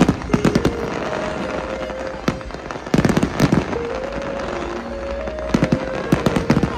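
Fireworks going off: rapid clusters of sharp bangs and crackles, one burst at the start, another about three seconds in and a third between five and six seconds in, over a steady background rumble.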